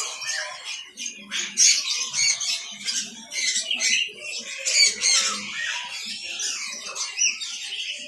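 Many caged birds chirping and squawking at once, a dense chorus of overlapping shrill calls with sharp louder squawks every second or so.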